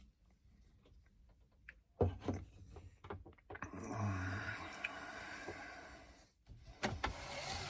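A few sharp clicks and knocks, then a few seconds of rustling noise, then more clicks near the end.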